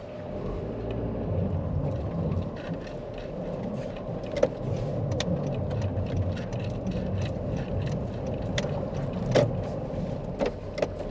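Honda CR-V being driven, with steady engine and road rumble and a few sharp irregular knocks.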